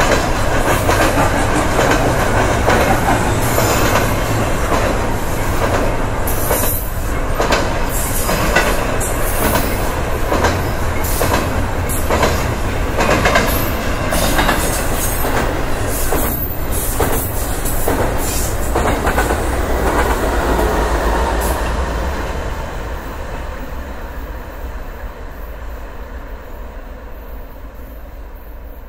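Double-stack container freight train's well cars passing close by, steel wheels clattering and clicking over the rail joints. About three-quarters of the way through the sound steadily fades as the last cars move away down the line.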